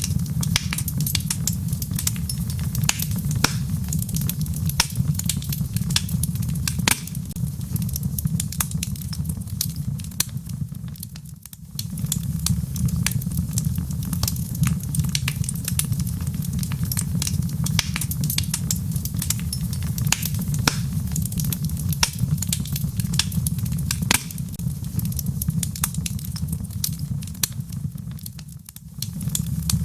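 Wood fire crackling in a fireplace: many sharp crackles and pops over a steady low rumble. The sound dips briefly twice, about a third of the way in and near the end.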